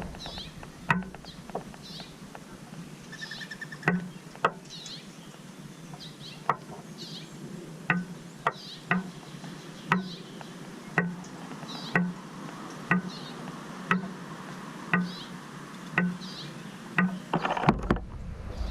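Small birds at a feeder making short high chirps, with sharp taps about once a second, like a bird pecking at the feeder.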